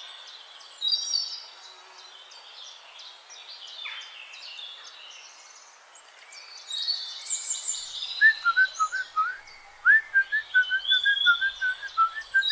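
Songbirds chirping and whistling, with a quick run of short chirps in the second half.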